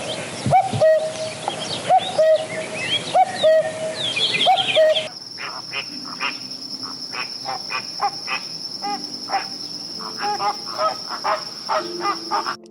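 Birds calling outdoors: a short call with a rising hook repeats about once a second over busy high chirping. About five seconds in, the recording changes to a steady high insect drone with quick chirps.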